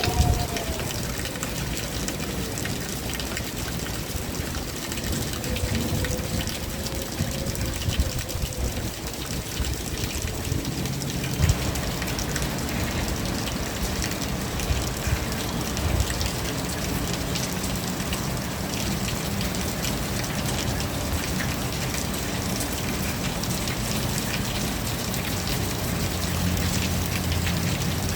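Steady rain falling, an even hiss with scattered drop impacts. A faint wavering tone drifts in the first few seconds, and the rain grows fuller about eleven seconds in.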